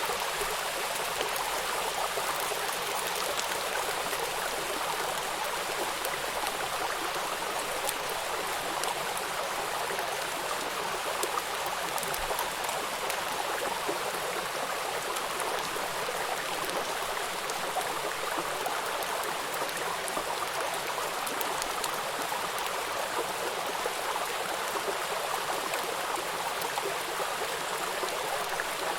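River water rushing over rocks at a small waterfall, a steady, even splashing rush that does not change.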